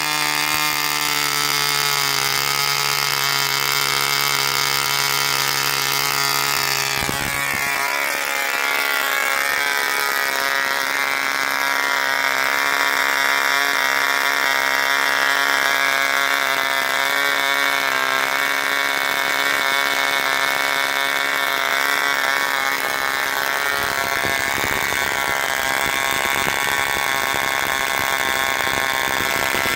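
Veco 19 two-stroke glow model airplane engine running at full speed with a 9x4 propeller, a loud, steady buzz. About seven seconds in its pitch rises sharply, then holds steady at the higher speed.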